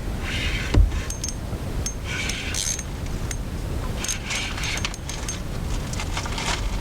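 Spinning fishing reel working in short whirring bursts with small mechanical clicks while a big bass is fought on the line, and a low knock about a second in.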